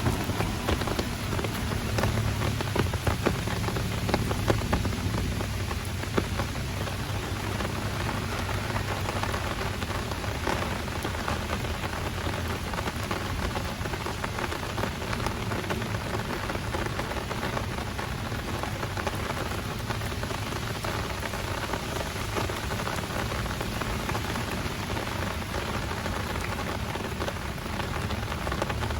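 Heavy rain falling steadily, with many close drops striking as sharp ticks throughout. A low rumble underneath fades over the first few seconds.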